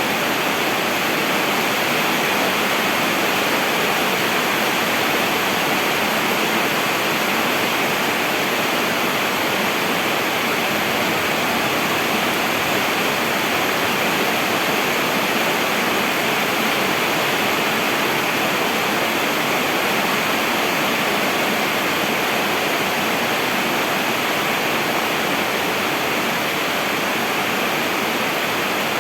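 Heavy rain falling steadily, an even rushing noise without pauses or thunder.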